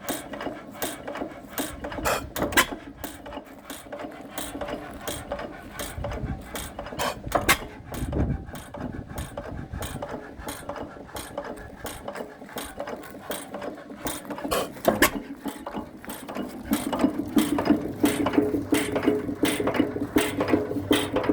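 1925 Herkules 8 hp hit-and-miss kerosene engine being started, its mechanism clicking rapidly and steadily, with a few heavier thumps spread through. Toward the end the sound becomes denser and more even.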